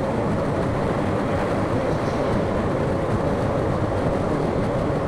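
BMW R1250GS boxer-twin motorcycle under way, heard from a mic inside the rider's helmet: a steady rush of wind and road noise with the engine droning underneath.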